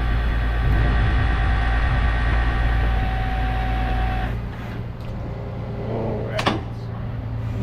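Rollback tow truck's hydraulics running with the engine under load, a steady drone with a whine, as the bed is worked under a wrecked car. The drone stops about four seconds in, and a single sharp knock follows near the end.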